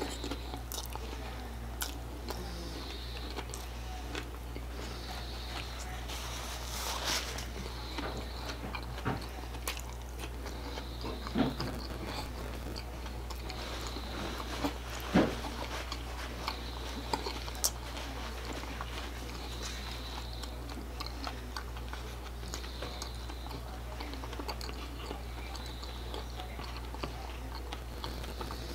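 Close-miked chewing of a mouthful of crunchy hard-shell taco: wet mouth sounds and small crackles, with a few sharper crunches about halfway through. A steady low hum runs underneath.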